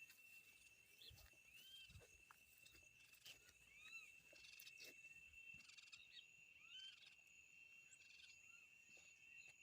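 Faint outdoor nature ambience: a steady high insect drone with short arched chirps scattered through it, and a few soft low thumps.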